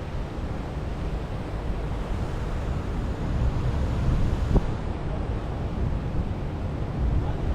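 Wind buffeting the microphone over the wash of sea surf, with a brief click about four and a half seconds in.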